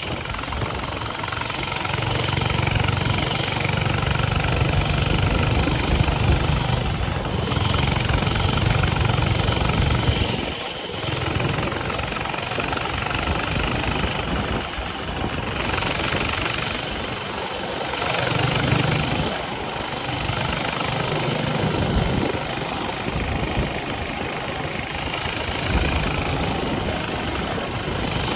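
Coleman mini bike's small single-cylinder four-stroke engine running under way, its pitch and loudness rising and falling with the throttle, easing off briefly about eleven seconds in.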